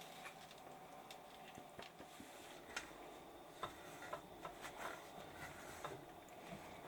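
Light irregular taps and clicks of things being handled in a small room, a few a second at uneven spacing, over a faint steady background.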